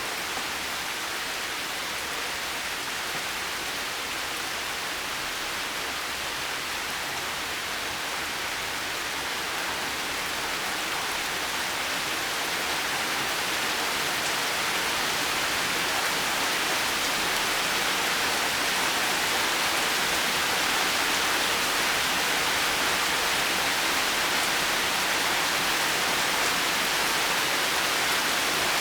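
Heavy rain as a steady, even hiss, growing gradually louder through the first two-thirds.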